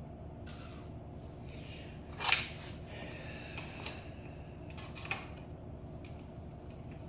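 Small metal parts and hand tools clinking and rattling a few times, loudest about two seconds in, over a steady low hum.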